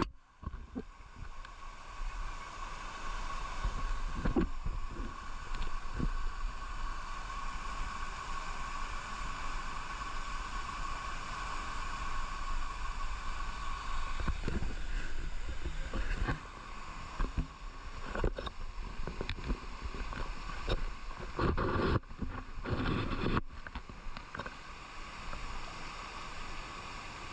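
Steady rush of water from a hill-stream cascade, with wind rumbling on the microphone and a few short knocks.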